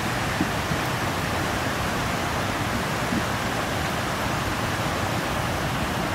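Steady rushing noise of water, even and unbroken, typical of floodwater flowing or heavy rain.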